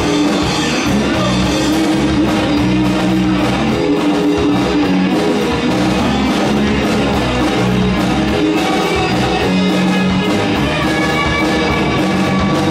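Live rock band playing an instrumental passage: electric guitars and bass over a steady drum-kit beat.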